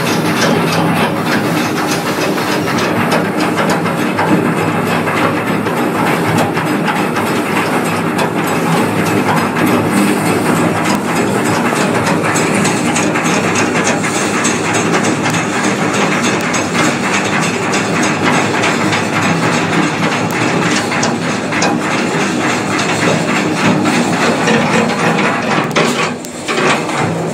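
Mill chute boat ride's chain lift clanking and rattling steadily as it hauls the boat up the incline, over a steady motor hum and a hiss, briefly dipping about a second before the end.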